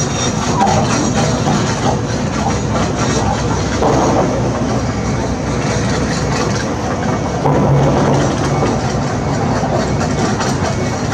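Heavy construction machinery at work: a diesel engine running with a constant clanking rattle of metal, a little louder about four seconds in and again near eight seconds.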